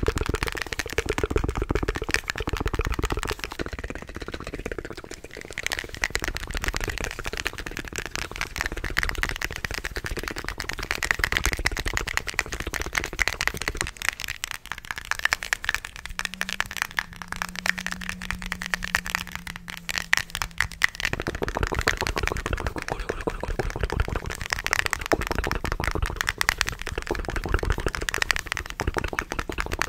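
ASMR mouth sounds close to the microphone: a fast, continuous run of wet clicks and crackles. About halfway through, a steady low tone is held for about five seconds.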